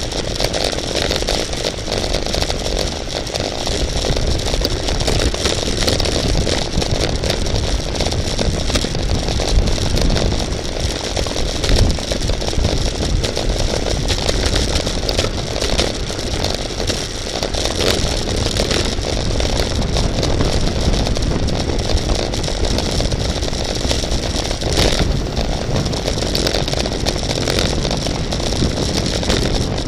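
Steady rush of wind and road noise at racing speed, loud and unbroken, with no distinct engine pitch.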